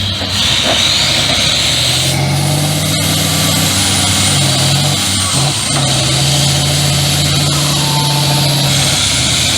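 Competition truck's engine running steadily, its note stepping up about two seconds in, dipping briefly just past five seconds, then holding again.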